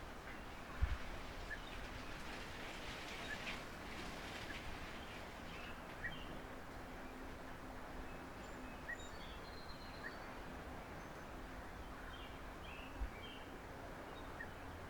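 Outdoor backyard ambience: a steady background hiss with short, faint bird chirps scattered throughout. Two brief low thumps stand out, one about a second in and one near the end.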